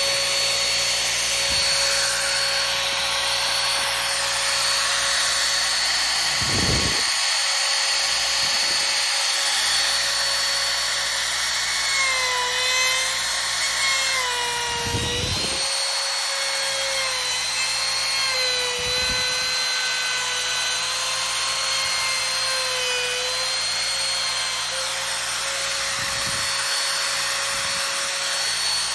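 Handheld router with a cove bit running at speed and routing the top edge of the cabinet-base feet: a steady high whine whose pitch sags a few times in the middle of the stretch as the bit takes the cut.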